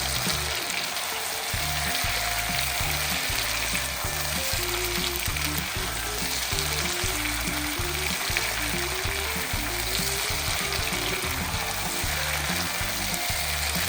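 Chicken, onions and freshly added tomato wedges sizzling in hot oil in a pan, a steady frying hiss, under background music with low stepped notes.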